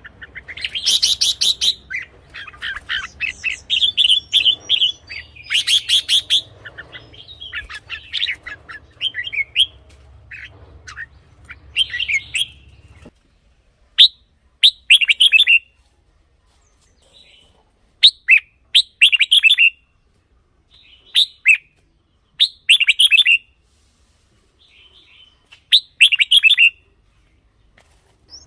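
Red-whiskered bulbul singing quick, bubbly whistled phrases. The song is dense for about the first half, over a low hum, then comes as short separate phrases every two to three seconds with silence between.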